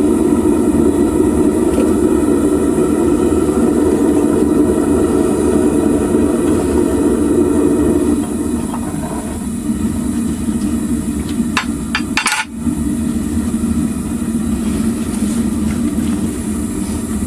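Homemade propane furnace burner running with a steady, loud rush of flame. It becomes a little quieter about eight seconds in. A few sharp metallic knocks come a few seconds later.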